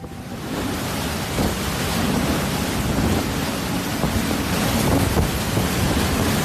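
Strong storm wind blowing and buffeting the microphone: a loud, steady rushing noise with a low rumble, building slightly over the first couple of seconds.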